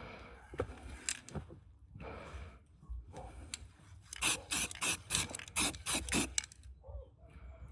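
Hand-tool scraping on a car part: soft scattered rubbing at first, then a quick run of about ten sharp scraping strokes, four or five a second, in the second half.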